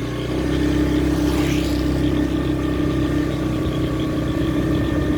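Motor vehicle engine running steadily with an even hum at one held pitch.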